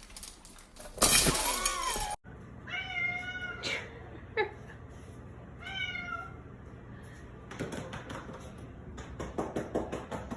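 Domestic cat meowing twice, a few seconds apart, with a brief falling cry between the meows. A loud burst of noise comes before them, near the start, ending in an abrupt cut.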